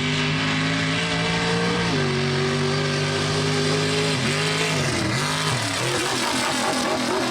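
Chevy mega mud truck's engine held at high revs, dropping to a slightly lower pitch about two seconds in, then revving down and up a few times near the end.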